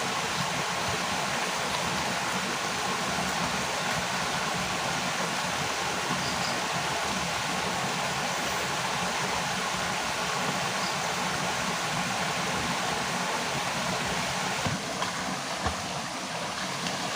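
Steady rushing of water, an even hiss with no rhythm, with a few short knocks near the end.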